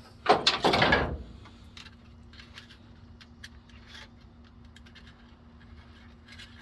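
Steel rear-axle parts of a 1965 Chevy C30 scraping and clattering for about a second as they are worked loose, then a few light metallic clicks over a faint steady hum.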